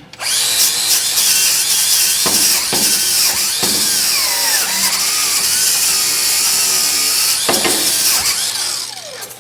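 Angle grinder grinding steel with a harsh hiss, its whine dipping and recovering in pitch as it is pressed into the work. Near the end it is switched off and spins down.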